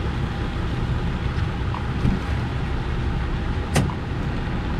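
Steady low rumble of a fishing boat's motor, with one sharp click near the end.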